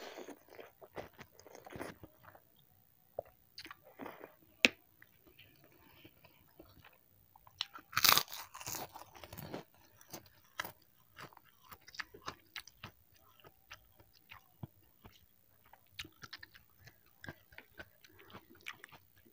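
Close-miked eating: a mouthful of Indomie goreng noodles taken in at the start, then wet chewing and lip smacks, with a loud burst of crunching from a bite of crisp white cracker about eight seconds in.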